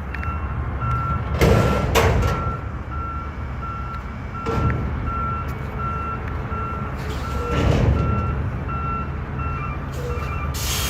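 Recycling garbage truck's backup alarm beeping evenly at one pitch, several beeps a second, over the diesel engine's steady low running as the truck reverses. Two loud hissing bursts about a second and a half in, the loudest sounds, with smaller surges later.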